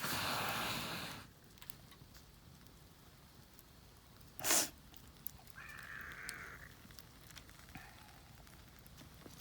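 Small wood fire crackling with scattered faint pops, with a rush of noise in the first second and one short, loud burst about four and a half seconds in.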